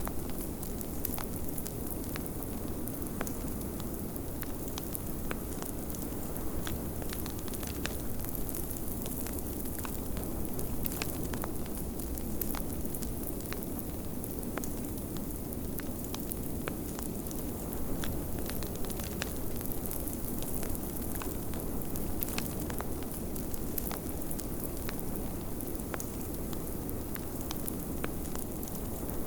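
Wood fire crackling in a fireplace, with many small irregular pops, over a steady low rush of snowstorm wind.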